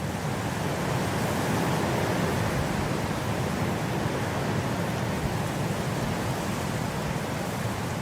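Blizzard wind blowing as a dense, steady rushing noise, swelling slightly about a second in.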